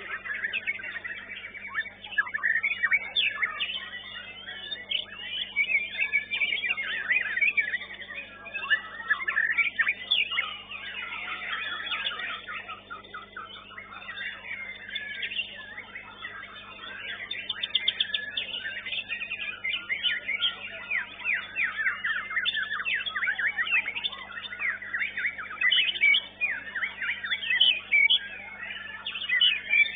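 White-rumped shama (murai batu) song: continuous fast, varied phrases with rapid trills.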